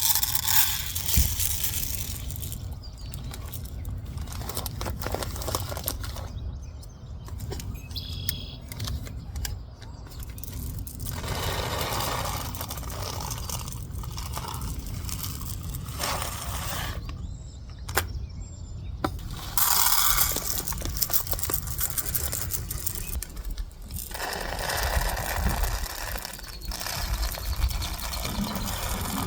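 Dry rice being scooped and poured into plastic baggies: bursts of rustling and rattling with scattered clicks, over a steady low rumble.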